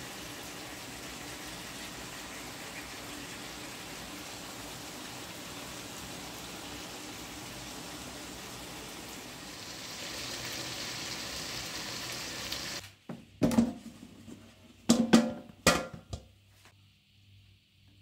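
Chicken, onions and sweetcorn sizzling steadily in a frying pan on a gas hob, a little louder after about ten seconds. The sizzle stops suddenly and is followed by a few loud, short knocks or clatters.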